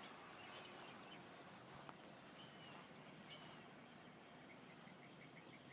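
Faint birdsong: scattered short chirps and whistles, with a quick series of about six notes near the end.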